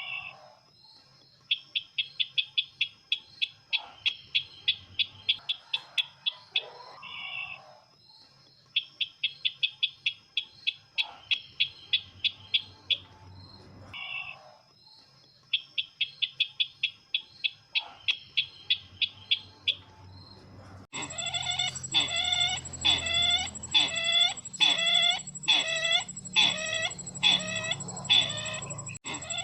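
Recorded sisintar ladang bird call, played as a trapping lure: fast trills of high, even notes, about eight a second, each run lasting about two seconds, repeated with short lower calls between. About two-thirds of the way in it switches to louder, harsher repeated call notes, about two a second, over a steady high whine.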